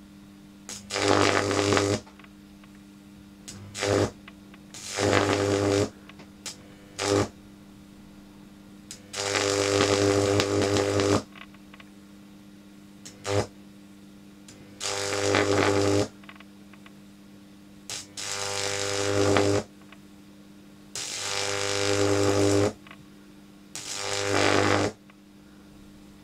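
High-voltage arc from a microwave oven transformer's roughly 2000-volt secondary, buzzing and crackling in about ten bursts of half a second to two seconds, with the transformer's steady mains hum between them.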